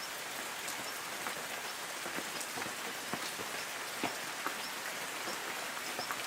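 Light rain falling on forest trees: a steady hiss of rainfall with scattered individual drops ticking on leaves.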